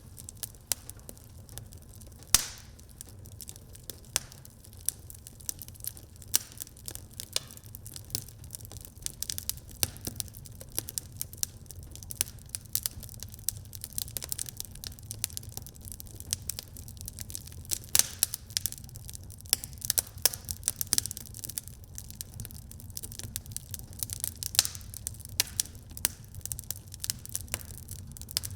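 Wood fire in a fireplace crackling, with dense irregular snaps and pops, a sharper pop about two seconds in, over a steady low rumble.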